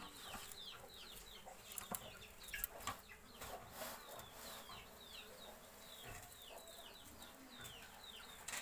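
Birds chirping faintly: many short falling chirps, a few each second, with a few sharp clicks about two to three seconds in.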